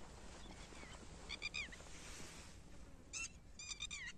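A bird calling in the distance: high, harsh notes in short runs. One run comes about a second and a half in and two more near the end, the last notes of each run sliding down in pitch.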